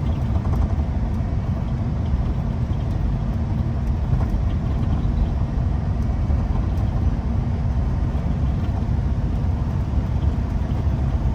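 Semi truck driving at highway speed, heard from inside the cab: a steady low engine and road rumble.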